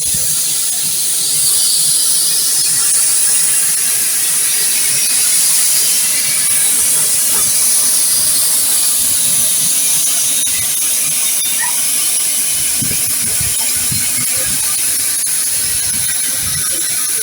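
Steam locomotive letting off steam, a loud steady hiss. About twelve seconds in, an irregular low rumbling joins it.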